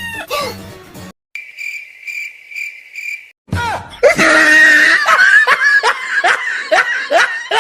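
Meme sound effects: about two seconds of high, evenly pulsing cricket chirps, then loud, shrill laughter with repeated falling squeals.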